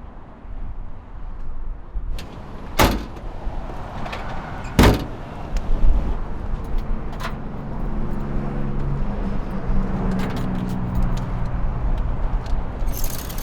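Two sharp knocks about two seconds apart, then a motor vehicle running steadily for several seconds, with low wind rumble throughout.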